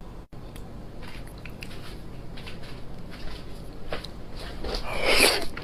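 Close-miked eating sounds: wet clicks of chewing meat, then a louder bite building up about five seconds in.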